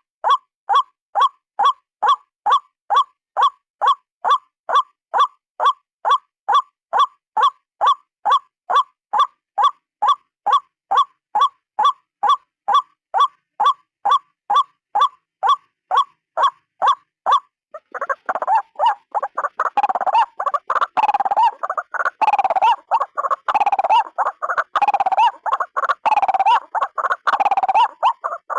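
A white-breasted waterhen calling: a long, even series of identical notes, about two to three a second, then, from about two-thirds of the way in, a harsher, denser stretch of raucous croaking calls. This is a recorded call played as a bird lure.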